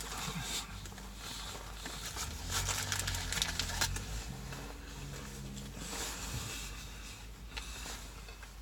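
A person chewing a bite of ciabatta sandwich with crispy fried onions, with irregular crunchy, crackly mouth sounds that are densest in the first few seconds and thin out toward the end.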